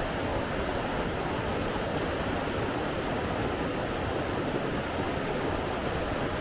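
Steady rushing water, an even unbroken noise with no rise and fall.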